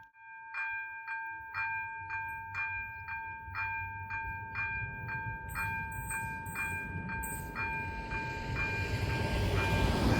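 AŽD ZV-02 electronic level-crossing bells ringing at about two strokes a second, warning that a train is coming. About six seconds in, the rumble of the approaching train builds and grows loud by the end.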